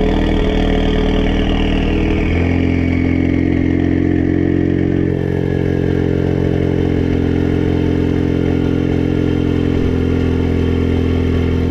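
Ford Focus Mk3's exhaust idling through a Scorpion aftermarket system with its exhaust valve open, soon after a cold start. The idle drops to a lower, steady note about two seconds in.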